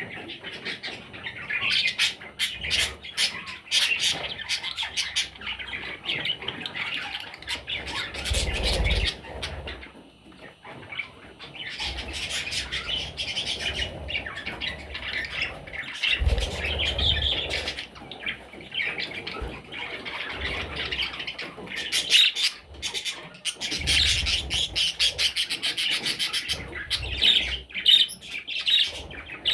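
Budgerigars chirping and squawking in many short, overlapping calls with scarcely a break, with a few dull low rumbles among them.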